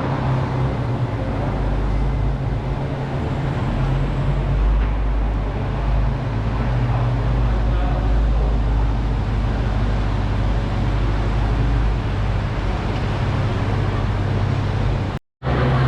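Car engine idling with a low steady rumble amid street traffic noise; the sound cuts out briefly near the end.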